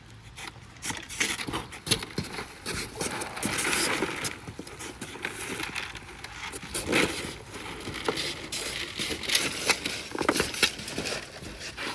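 Irregular sharp clicks, knocks and rustling from hands-on work laying radiant-heat tubing over foam insulation board.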